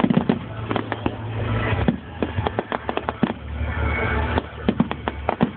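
Fireworks display: aerial shells bursting overhead in a rapid, irregular run of sharp bangs and crackles, several a second.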